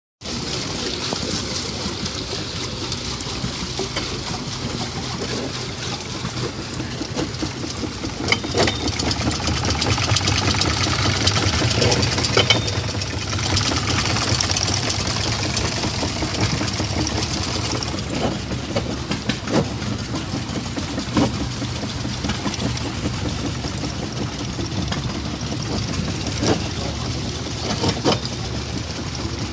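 Working scale-model machinery running steadily, an engine-like mechanical hum with a few sharp clicks or knocks.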